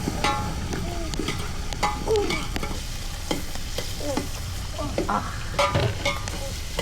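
Food frying and sizzling in a pan while it is stirred, with short scrapes and knocks of the utensil against the pan.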